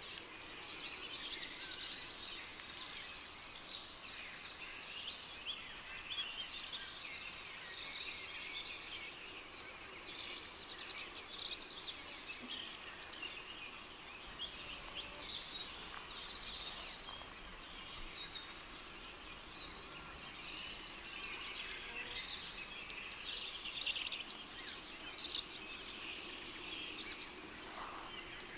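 Rainforest ambience: a cricket chirping in an even, high-pitched pulse, pausing briefly about three quarters of the way through, with scattered bird calls behind it.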